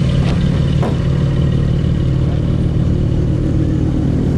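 A car engine running steadily at an even pitch, with a couple of light clicks in the first second.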